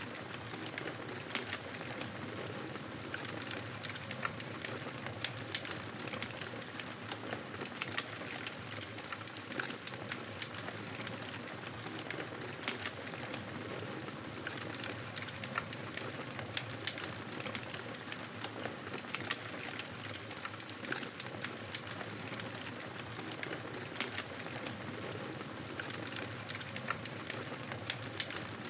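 Wood fire crackling: a steady hiss with frequent small, sharp pops at irregular intervals.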